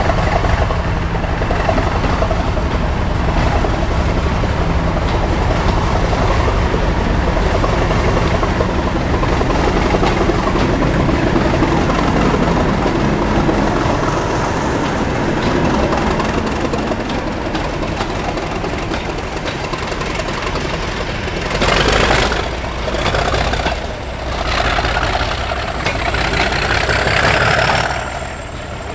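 Heavy mainline diesel locomotive engine running with a steady low drone, then surging louder in bursts near the end, with a faint rising whistle.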